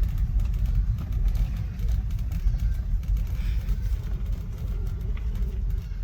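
Low, steady rumble of a vehicle on the move, road and wind noise, with no clear engine note.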